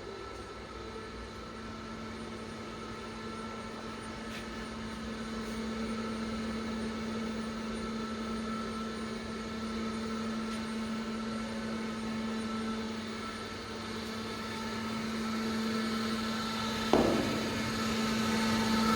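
Steady machinery hum with a constant tone, and a single sharp knock near the end.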